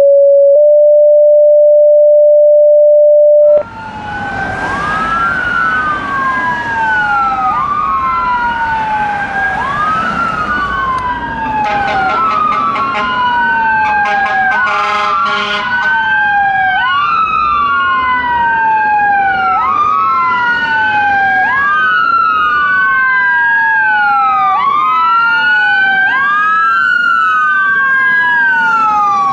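A loud steady tone for about three and a half seconds, then fire truck sirens wailing. Two or more sirens rise and fall out of step with each other, with horn blasts about halfway through.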